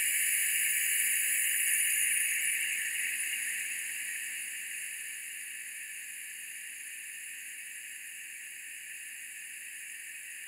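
Steady hissing white noise from breath blown through a gutted foaming-soap pump mechanism with a straw fitted, strongest at first and then easing off to a steadier, quieter hiss as the breath runs out.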